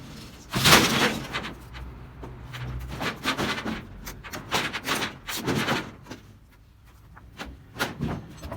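Sheets of corrugated tin roofing banging and clattering as they are handled: one loud crash about half a second in, then a run of shorter knocks and rattles, and two more knocks near the end.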